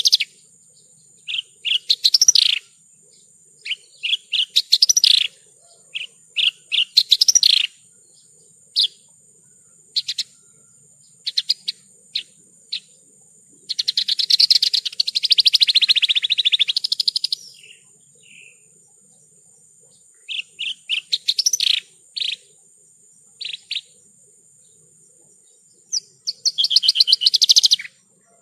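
Javan bush lark (branjangan) singing: short phrases of rapid chirps and trills separated by brief pauses, with one longer, denser trill of about three seconds midway.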